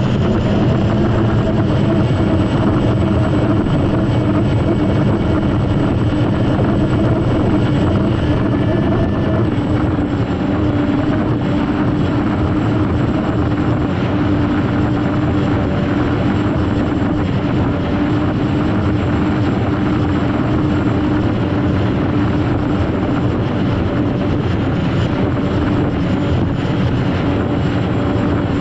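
Turbine engine of an unlimited hydroplane heard from onboard the boat, running steadily at speed: a loud, even roar with a thin, high-pitched whine above it. The tone of the engine shifts slightly about ten seconds in.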